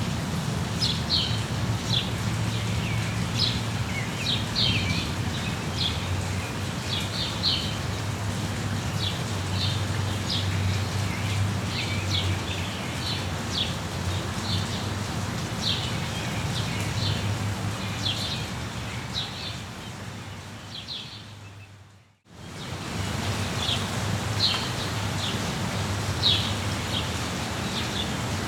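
Steady rain with small birds chirping over it in short, repeated high calls. About two-thirds of the way through, the whole sound fades out to silence and straight back in.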